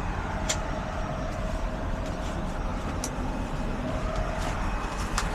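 Heavy truck engine idling steadily with a low rumble, with a few sharp clicks about half a second in, about three seconds in and near the end.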